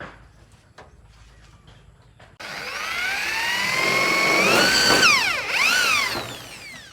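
Handheld electric power tool motor starting up, its whine rising in pitch as it spins up. About three seconds later the pitch dips sharply, climbs back, then falls away as the tool winds down.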